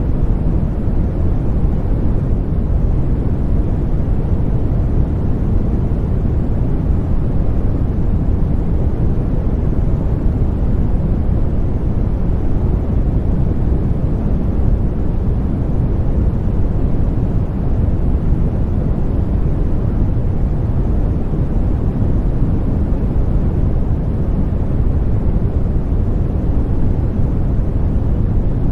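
Continuous baby-sleep white noise: a steady, deep rushing sound, heaviest in the low end with little hiss on top, never changing.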